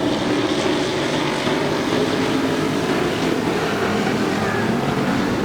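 Super Pro race trucks' engines running hard together as a pack laps a short oval, a steady, dense engine noise.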